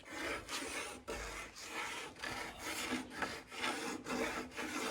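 Pencil scratching along a wooden board as an outline is marked, in repeated rubbing strokes about two a second.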